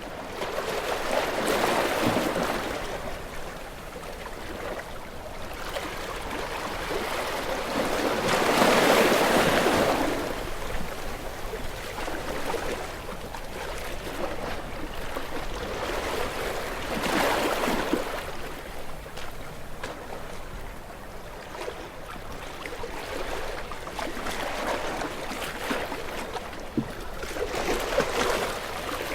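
Ocean surf: waves break and wash in slow swells of hissing water several seconds apart, the largest about nine seconds in.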